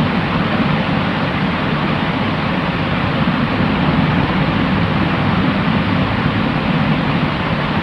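Steady white noise for sleep: an even, unchanging rushing hiss with a low rumble underneath, no rhythm and no breaks.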